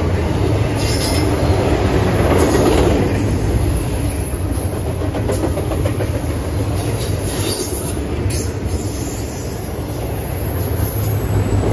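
Double-stack intermodal well cars rolling past at speed: a steady rumble of steel wheels on rail, with a few sharp clicks over rail joints. A faint high wheel squeal comes in near the end.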